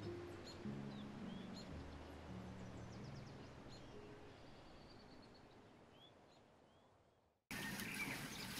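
Faint birdsong, short chirps, over low held tones that shift in pitch every half second or so. It all fades away to silence about six seconds in, and a few seconds later a steady outdoor background hiss cuts in abruptly.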